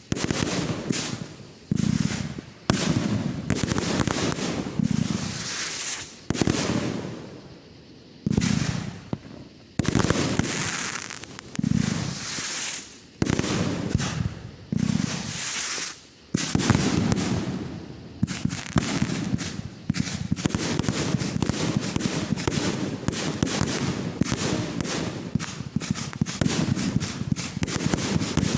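Fireworks going off one after another, each a sudden bang that dies away over a second or so; from a little past halfway, a dense, unbroken run of rapid crackling reports.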